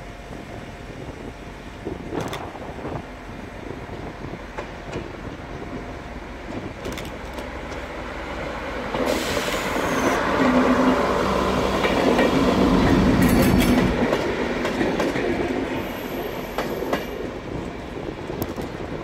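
Network Rail multi-purpose vehicle train running past close by: a diesel engine note and wheels clicking over rail joints, building from about nine seconds in, loudest around ten to fourteen seconds, then fading as it moves away.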